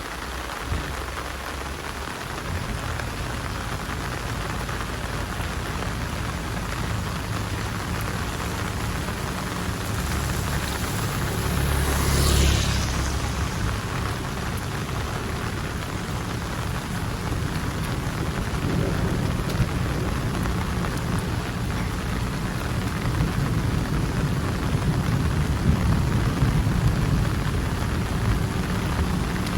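Heavy rain falling steadily, with a low rumble underneath and a brief louder swell about halfway through.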